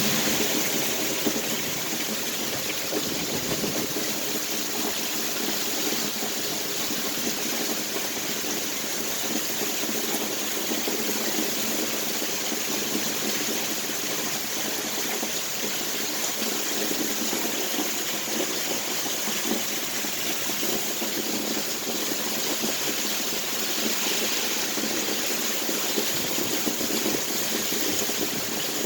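Heavy storm rain falling, a steady, unbroken rushing hiss.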